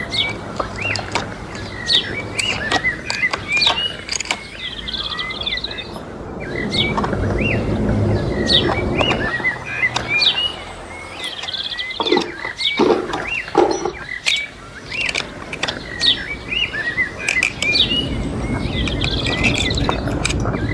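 Small birds chirping over and over in short, quick calls, with scattered sharp clicks and a few dull knocks against a steady low background noise.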